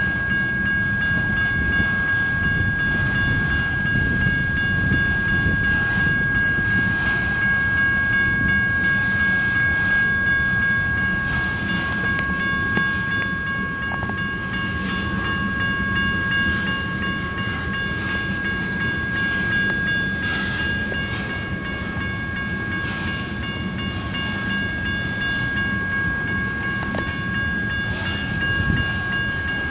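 Freight train of tank cars rolling through a grade crossing: a steady rumble of wheels on rail with scattered clicks, under a steady high ringing tone.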